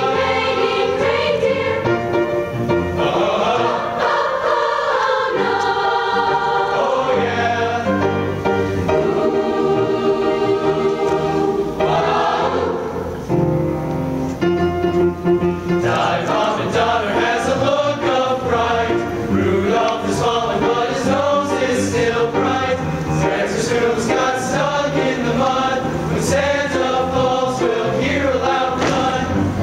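A high school choir singing, with many voices holding chords together. The sound thins briefly about twelve seconds in, then comes back fuller a few seconds later.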